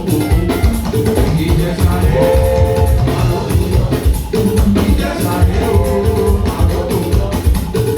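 Live church music with a drum kit playing a steady beat, and instruments and singing voices over it.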